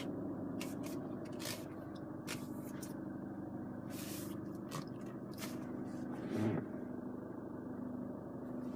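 Steady low hum inside the cabin of a Chevrolet Orlando with the ignition on, with a few light clicks and knocks scattered through it and a small bump about six and a half seconds in.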